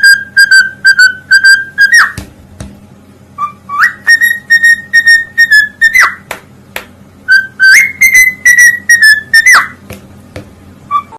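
A parrot whistling loudly in three runs of short, rapidly repeated high notes. Each run ends in a quick upward-and-downward pitch sweep.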